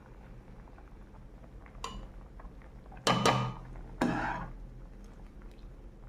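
A metal utensil clattering against a cooking pot as part-boiled rice is scooped out: a light knock, then two louder clanks about three and four seconds in.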